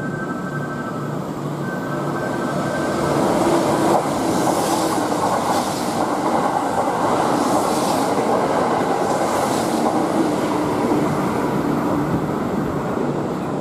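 Kintetsu limited express electric train passing through a station at speed without stopping: a rushing rumble of wheels and motors that swells about three seconds in. A few louder clatters come as the cars go by.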